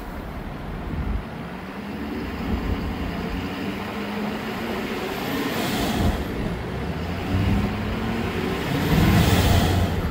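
Ford 6.7L Power Stroke V8 turbodiesel idling steadily and running smoothly, with no misfire. The sound swells louder twice, about six seconds in and again near the end.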